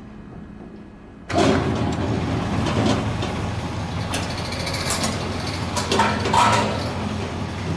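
Ishida semi-automatic computer scale and lifter starting up about a second in, then running with a steady motor hum and intermittent clattering.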